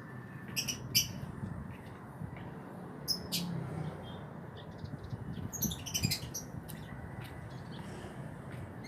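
Songbird giving short, sharp, high chirps and squawks, scattered and in small clusters, over a steady low background hum.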